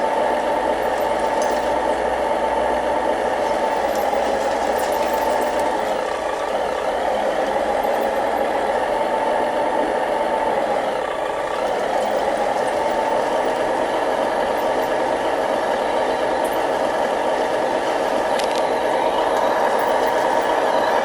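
A remote-control model construction machine running steadily, with a slight dip in level twice and a build toward the end.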